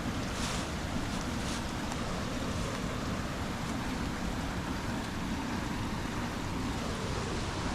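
Waterfalls rushing: a steady, even wash of falling water with a strong low rumble.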